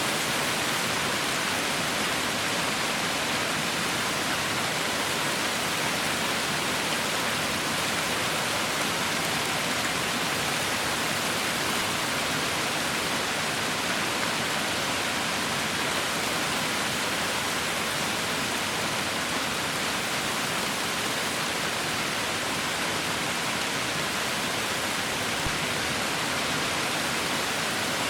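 Heavy rain falling in a steady, dense hiss with no pauses or distinct drops standing out.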